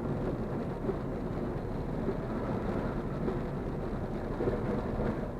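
Heavy rain beating on a moving Alto K10 car's body and windscreen, mixed with tyre noise on the wet road, heard from inside the cabin as a steady, dense rush.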